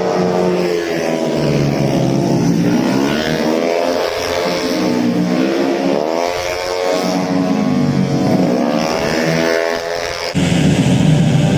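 Tuned automatic racing scooters running hard, several engines at once, their pitch rising and falling repeatedly as they rev and pass. About ten seconds in the sound turns suddenly louder and rougher.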